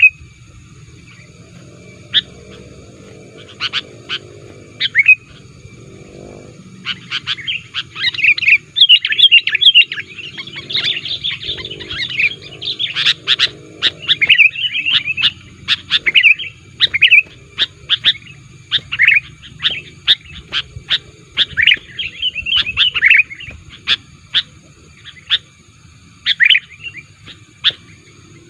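Sooty-headed bulbul (kutilang) calling and singing: short, sharp chirps at first, building to a dense run of rapid chattering phrases through the middle, then thinning back to scattered chirps near the end.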